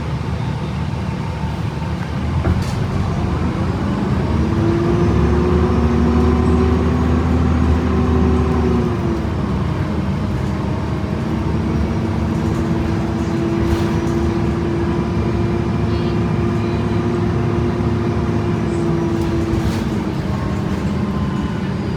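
2011 Gillig BRT transit bus with a Voith automatic transmission pulling away, its transmission whining. The whine rises in pitch, holds steady, dips briefly about halfway through, holds again, and eases off near the end.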